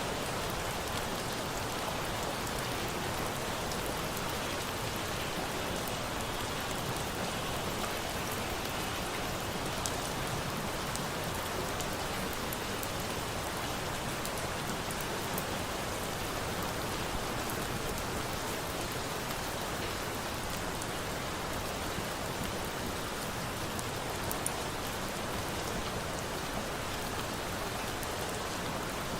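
Steady rain falling, an even hiss with no change in level, with a few faint sharp ticks standing out here and there.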